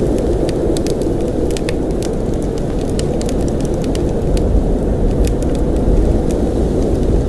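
Blizzard wind blowing with a steady low roar, with scattered sharp ticks and crackles over it.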